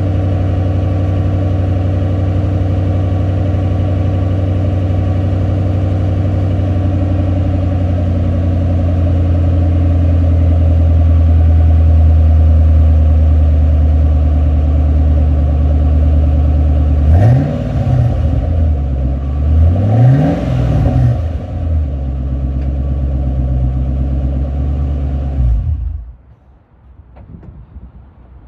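2006 Roush Mustang's engine idling steadily after a cold start, blipped twice in quick revs about three seconds apart, then switched off a couple of seconds before the end.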